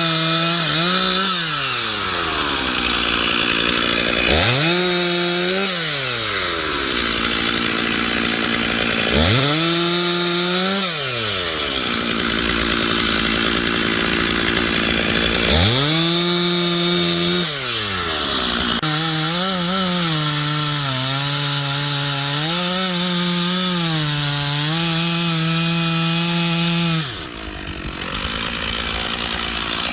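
Stihl MS 461 two-stroke chainsaw bucking ash firewood: it revs up from idle to full throttle and drops back four times in short cuts, then holds one longer cut of about eight seconds with the engine speed wavering under load. That long cut ends suddenly.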